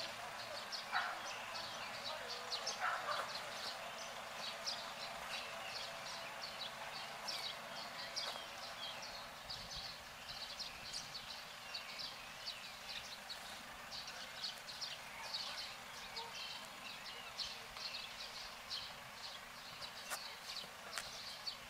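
Small birds chirping rapidly and irregularly over a steady outdoor hiss.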